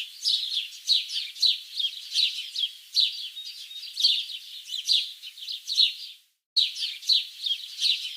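Birds chirping: quick, high, repeated chirps, several a second, broken by a short gap about six seconds in.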